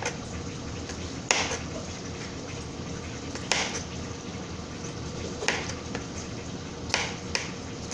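Chicken thighs sizzling steadily in hot olive oil in a skillet, with a few light knocks of a utensil against the pan.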